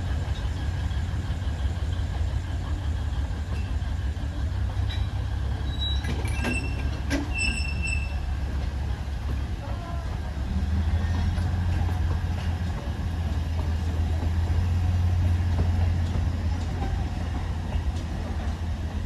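Alishan Forest Railway diesel locomotive running with a steady low drone that grows louder about ten seconds in, with a few short high metallic squeals and clicks from the train around six to eight seconds in.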